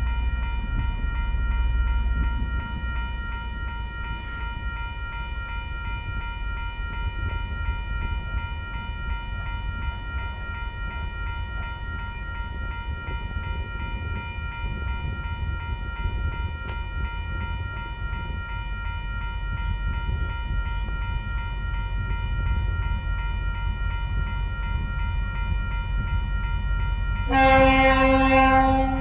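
Freight train of coal wagons rolling by with a low rumble, over a steady high ringing tone. Near the end the lead locomotive, TasRail DQ-class 2008, sounds its horn once for about a second and a half.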